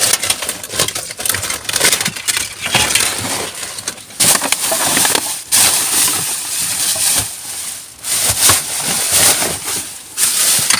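Rubbish being rummaged through by hand in a bin: plastic bags and packaging crinkling and rustling in irregular bursts, with a few short pauses.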